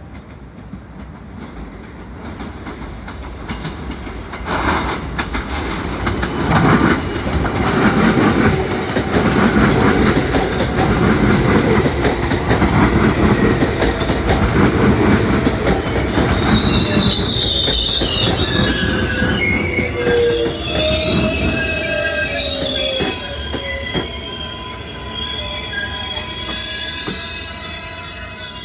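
A New York City Subway L train running into the station, its rumble growing and clattering over rail joints. About halfway through, the wheels set up a long squeal in several wavering high tones while the rumble eases.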